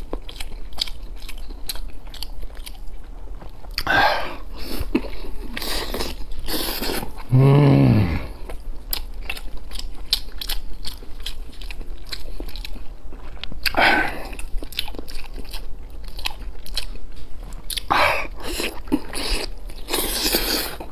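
Close-up eating of braised pork belly: steady chewing with many small mouth clicks, and several louder bites a few seconds apart. A short hummed 'mm' from the eater comes about seven and a half seconds in.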